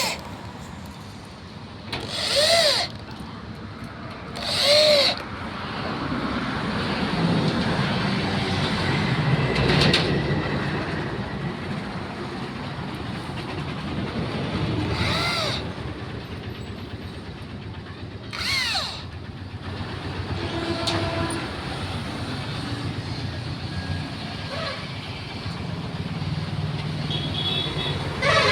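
A power drill or driver run in short bursts, five times. Each burst's whine rises in pitch and falls away as the trigger is released, over a steady background rumble.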